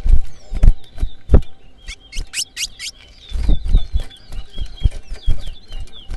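Towa-towa finch singing in a song race: quick hooked chirps repeated over and over, with a run of sharp sweeping whistles about two seconds in. Loud low thumps break in now and then.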